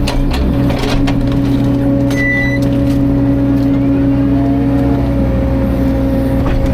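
Caterpillar 305.5 mini excavator's diesel engine running steadily at working revs, with a held pitch. A few sharp knocks or cracks come near the start and again near the end, and a brief high tone sounds about two seconds in.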